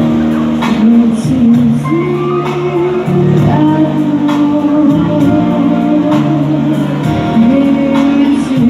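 A female voice singing a song over instrumental accompaniment, holding long notes.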